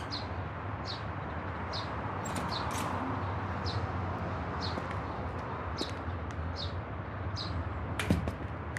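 A small bird chirping, a short high call repeated roughly once a second, over a steady low background hum. A single sharp knock sounds near the end.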